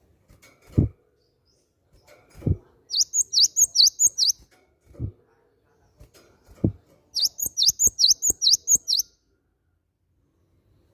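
Cinereous tit (gelatik batu) calling in two quick runs of sharp, high, repeated notes, about four a second. Several dull thumps fall between the runs.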